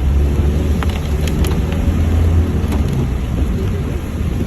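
Steady low engine and road drone of a moving vehicle heard from inside, with a few short sharp ticks over it.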